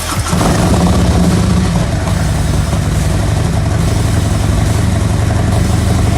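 Harley-Davidson Milwaukee-Eight V-twin, bored out from 107 to 114 cubic inches in a Stage III build, idling steadily.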